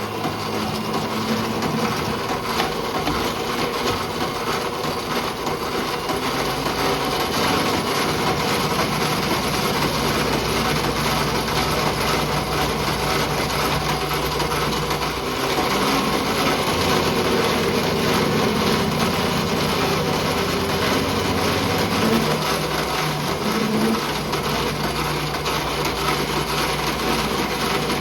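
Lathe running steadily with its motor and drive humming, while the cutting tool takes a turning pass along the part; the low hum shifts a couple of times partway through.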